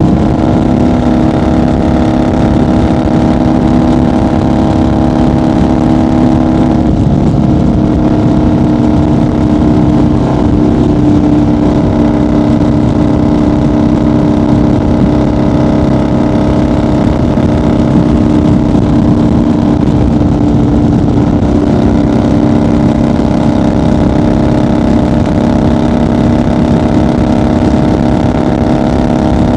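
1990 Harley-Davidson FXR's 1340 cc Evolution V-twin running steadily at highway cruising speed. Its note shifts about seven seconds in, then holds steady again.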